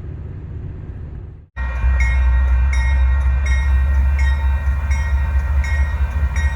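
Double-stack intermodal freight train running past close by: a heavy, steady low rumble with a few steady tones above it and a regular click of the wheels under a second apart. It starts abruptly about a second and a half in, after quieter background noise.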